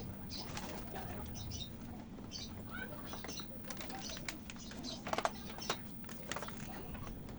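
Birds chirping now and then, mixed with scattered sharp clicks and knocks, the loudest about five seconds in, over a steady low hum.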